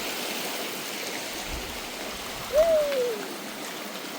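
Steady rushing of running water. About two and a half seconds in comes a single short call that rises and then falls in pitch.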